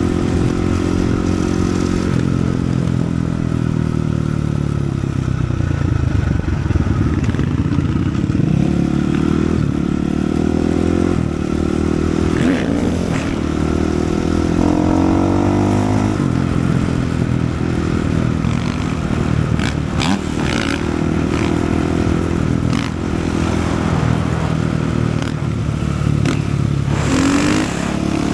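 Supermoto's 450cc single-cylinder four-stroke engine under way, revving up and dropping back again and again through gear changes and throttle blips.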